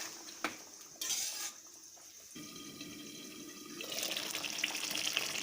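A few short knocks of pan or lid, then a quiet stretch, then chicken-and-potato gravy bubbling and sizzling in the pan, getting louder near the end.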